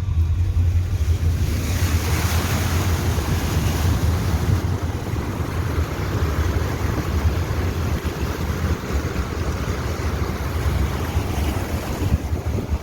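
A vehicle driving through deep floodwater: a steady rush of water washing and spraying against the body over a low engine rumble, the wash growing fuller about two seconds in.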